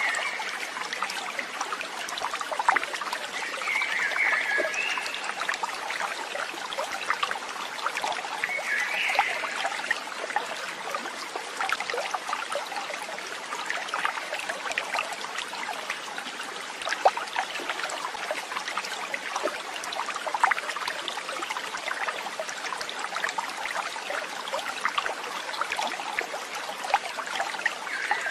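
Water trickling and babbling over stones like a small stream, a steady busy patter. A few short calls ring out above it, at the start, twice in the first ten seconds and again at the end.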